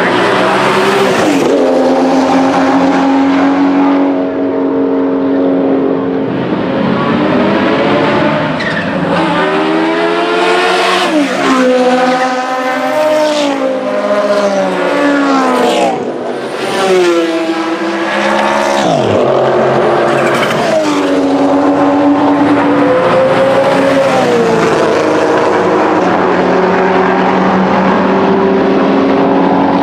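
Vintage race car engines running hard past the track, revving up through the gears and dropping in pitch on each shift and lift, several cars going by in turn.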